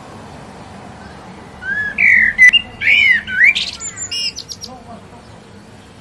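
A bird singing one phrase of about three seconds: clear whistled notes that slide up and down, then a quick run of high, rapidly repeated notes near the end.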